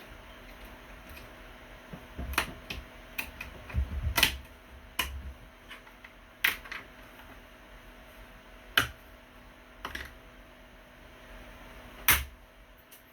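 Irregular sharp clicks and knocks of small objects being handled, about a dozen, with a louder knock about four seconds in and another near the end, over a faint steady hum.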